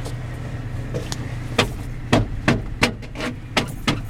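Footsteps crunching in snow, a quick run of short crunches from about a second and a half in, over a steady low hum.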